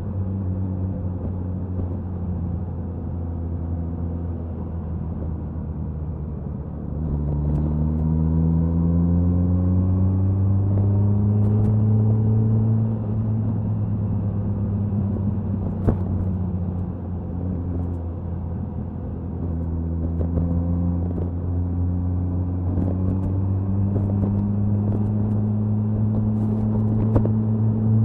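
Suzuki Hayabusa inline-four motorcycle exhaust under way at speed, with wind noise. The revs climb steadily about a quarter of the way in, ease off briefly past the middle, then climb slowly again toward the end.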